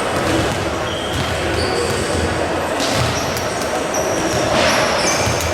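Steady crowd din in an indoor basketball arena, with short high squeaks from shoes on the court scattered through it.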